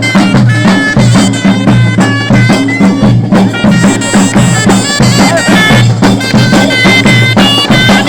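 Traditional Arab zaffa wedding music: a reedy wind instrument plays a held, ornamented melody over a steady repeating drum beat.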